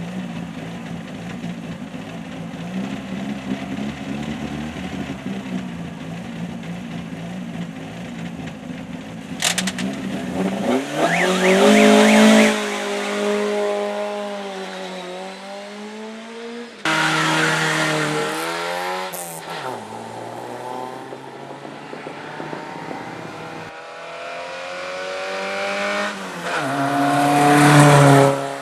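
Hill-climb race car engines at full throttle, revving up and dropping back as they shift through the gears. A fainter engine is heard first, then several loud passes, each cut off abruptly.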